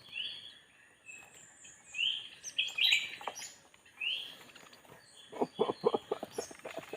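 Small birds calling: a short rising chirp repeats about every two seconds among other chirps, and a quick run of clicking notes comes near the end.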